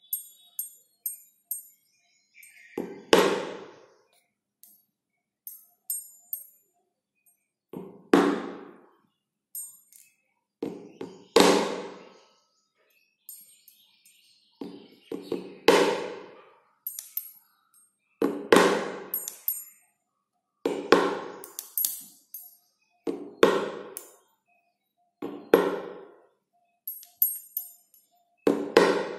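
A tuning fork struck again and again, about every two to three seconds, each strike a thunk followed by a short ring, with light ticking taps as the vibrating prongs knock a small plastic ball away. A faint steady tone from the ringing fork sounds between strikes.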